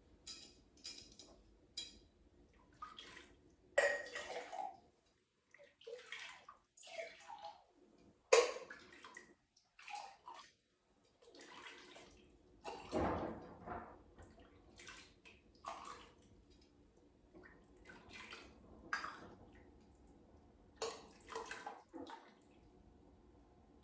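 Chicken bone broth being poured and spooned in several short, irregular spells, splashing and dripping.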